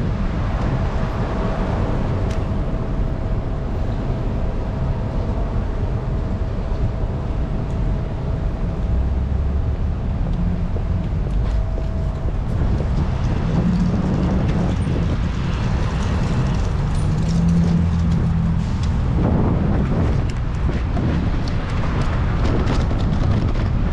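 City street traffic: a steady low rumble of passing vehicles, with a faint steady tone through the first half.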